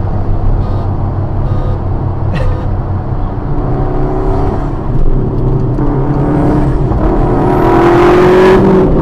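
Sports car engine accelerating under load: a steady engine drone that climbs slowly in pitch and gets louder through the second half, with rushing noise building near the end.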